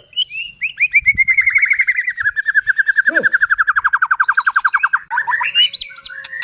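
White-rumped shama singing: a long, fast run of short repeated notes that slowly drops in pitch, then breaks into quick, varied whistled phrases near the end.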